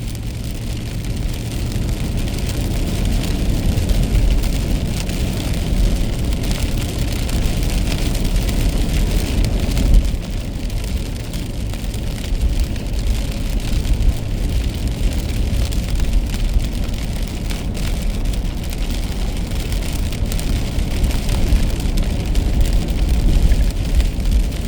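Car driving on a wet road in the rain: a steady low rumble of road and tyre noise, with rain striking the car.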